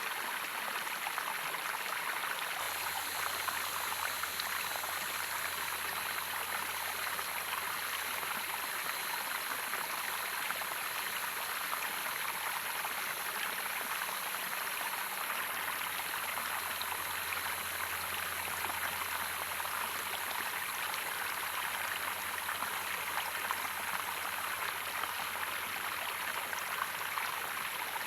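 Natural running water flowing steadily, an even, unbroken rush of water sound.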